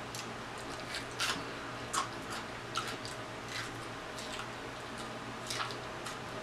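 Close-miked mouth sounds of eating rotisserie chicken drenched in sauce: wet chewing and lip smacks, with a short click or smack about once a second. A faint steady hum sits underneath.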